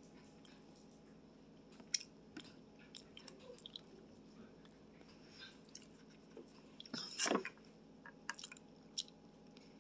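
A person chewing a mouthful of Indian sweet: quiet, scattered small mouth clicks, with one louder burst about seven seconds in.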